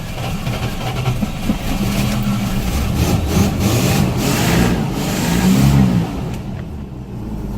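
Dodge Ram pickup's Chrysler slant-six engine running just after an ether-assisted cold start in deep cold, revved up and down several times in the middle, then easing back toward idle near the end.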